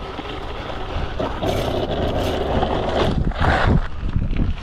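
Rough wind buffeting on the helmet-camera microphone and the crackle of knobby tyres scrabbling over loose dirt as a Freego X2 electric dirt bike climbs a steep hill.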